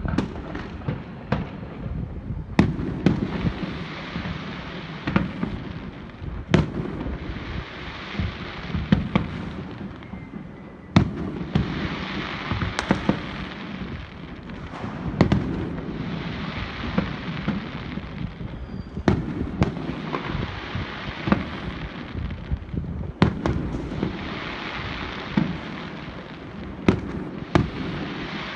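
Aerial fireworks display: shells bursting in sharp bangs every second or two, over repeated swells of crackling noise that each last a few seconds.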